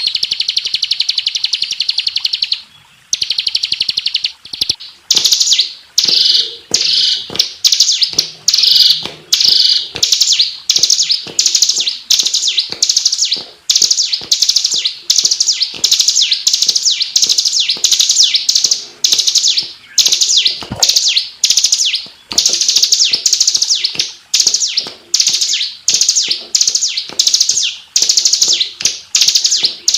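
Bar-winged prinia (ciblek) singing: a high, fast unbroken trill at first, then short trilled phrases repeated about once a second, each starting loud and fading away.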